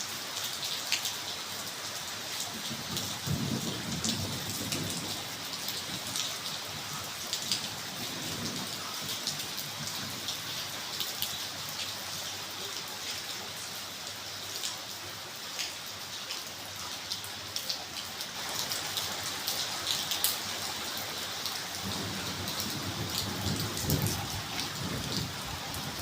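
Steady rain falling, with many drops ticking sharply on nearby surfaces. Low rumbles come a few seconds in and again near the end.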